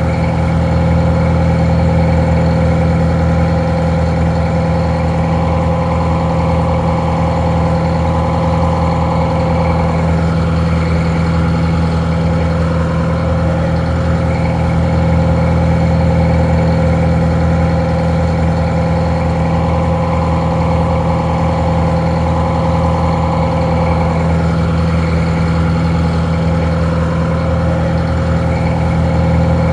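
Detroit Diesel 4-71 two-stroke diesel engine idling steadily, sounding a little muffled.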